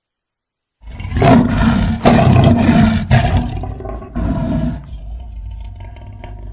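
Lion roaring: it comes in suddenly out of silence with a long, loud, rough roar of about three seconds, then a shorter burst, then trails off into quieter, lower grunts.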